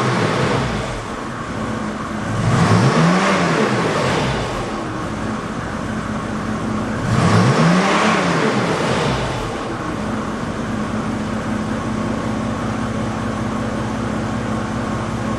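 Mercedes 350SDL's OM603 3.5-litre six-cylinder turbodiesel idling, revved twice; each time the note rises and falls back to idle over about two seconds, with steady idle between and after.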